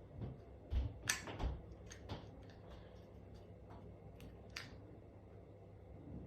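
Scattered light clicks and taps of small hard objects being handled, bunched about a second in and again past the middle, over a faint steady low hum.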